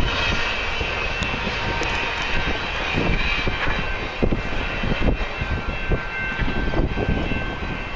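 Cars of a long loaded CP Expressway intermodal freight train rolling past: a steady rumble of wheels on rail with a thin high squeal, and irregular sharp clacks as the wheels cross rail joints, more frequent in the second half.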